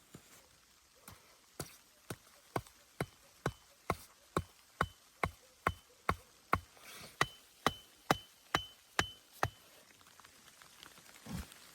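A steady run of about twenty sharp knocks, roughly two a second, stopping about nine and a half seconds in; the later knocks each carry a short high ring.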